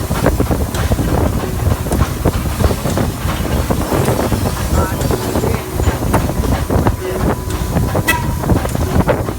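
Steam train running, a continuous heavy rumble with irregular clicks and knocks from the track and carriages. A brief high pitched tone sounds about eight seconds in.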